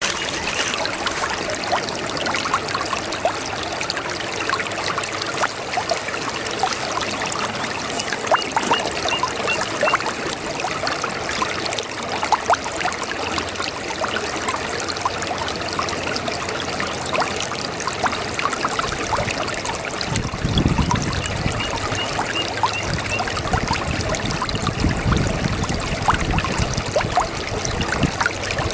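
A babbling brook: water trickling and gurgling steadily, with dense small splashes and a few deeper gurgles about two-thirds of the way through. It starts suddenly out of silence.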